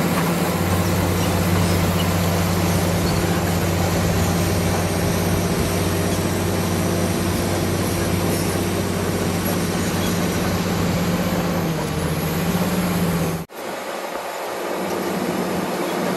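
Crawler bulldozer's diesel engine running steadily under load, a deep hum under a dense hiss. It cuts off abruptly near the end and comes back weaker and less steady.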